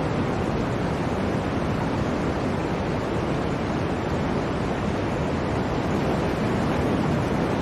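Blizzard wind blowing steadily: an even, unbroken rush of noise with no separate gusts or other events.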